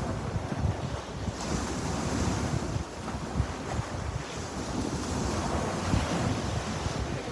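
Sea surf washing steadily onto the shore, with a hiss that swells about a second and a half in. Wind gusts buffet the microphone, adding an uneven low rumble.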